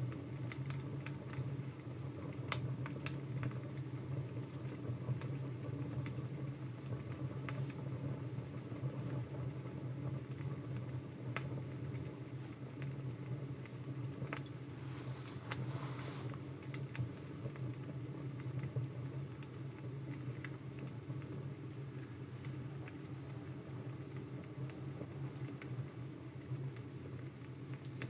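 Wood fire crackling, with irregular small pops and snaps over a steady low hum.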